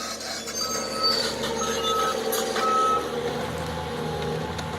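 Backup alarm on heavy demolition machinery: four steady beeps about a second apart that stop about three seconds in, over the steady low rumble of the machine's engine.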